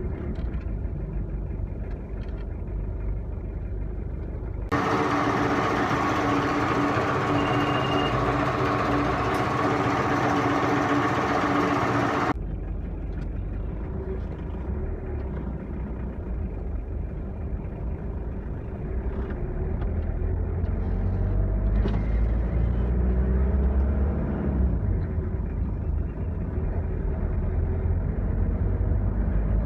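Low, steady engine and road rumble of a moving road vehicle, growing louder about two-thirds of the way through. Between about five and twelve seconds in, a brighter sound with several steady tones cuts in and cuts out abruptly.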